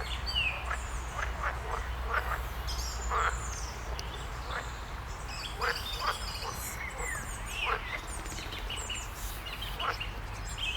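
Frogs calling from the lake in short, repeated croaks, mixed with small birds chirping and trilling, over a steady low rumble.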